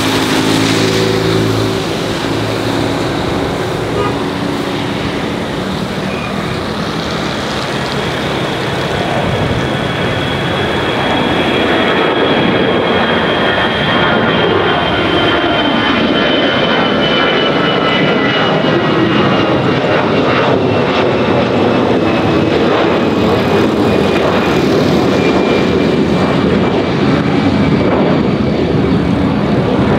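Airbus A320 airliner's jet engines running loud and close, a steady rush of noise with a thin high whine that slowly falls in pitch through the second half.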